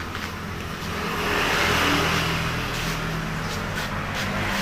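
Motor vehicle passing on the road: engine hum and tyre noise swell to a peak about two seconds in and ease off, with another vehicle starting to approach near the end.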